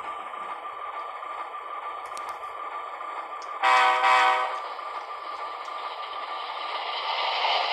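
HO-scale locomotive sound unit playing an EMD F3 diesel starting up through its small speaker: a thin, steady engine sound with no bass, and a louder short tonal blast about three and a half seconds in.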